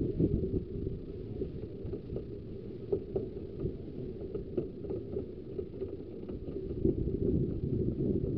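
Steady low rumble of a Ravenglass and Eskdale Railway 15-inch gauge train in motion, heard from on board, with scattered light clicks.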